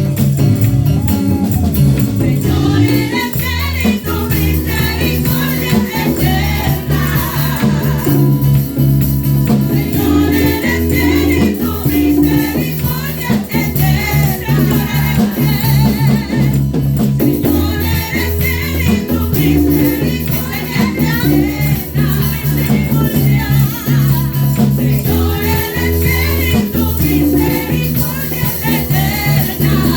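Live worship band playing a gospel song, with steady bass, drums and a shaking rattle, and voices singing over it.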